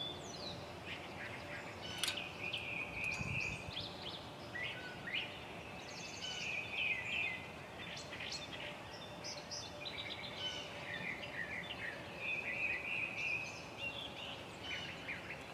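Songbirds twittering and singing in short repeated phrases, over a faint steady hum.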